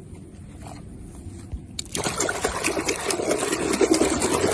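Water starts pouring and splashing about halfway through as a muddy toy is rinsed clean.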